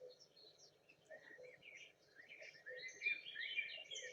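Small songbirds chirping and twittering faintly, many short overlapping calls, sparse at first and busier after about two and a half seconds.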